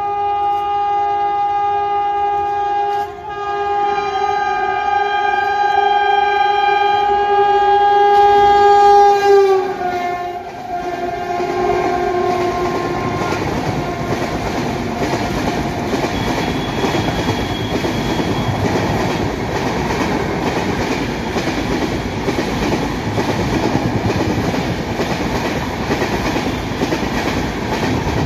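Express train's locomotive horn in two long two-tone blasts, the second dropping in pitch as the locomotive passes, then the rumble and steady clickety-clack of its passenger coaches running past at speed.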